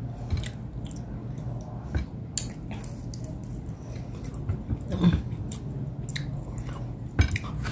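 Close-up chewing and mouth sounds of a person eating roast chicken by hand, pulling meat off the bones, with scattered small clicks and smacks over a faint steady low hum.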